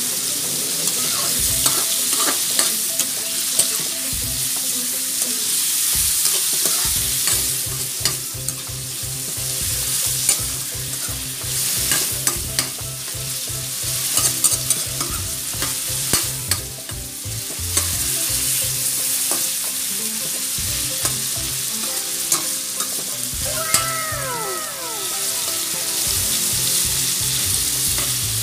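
Chicken pieces sizzling in oil in a wok with onion and garlic, while a spatula scrapes and knocks against the metal wok as the pieces are stirred and turned.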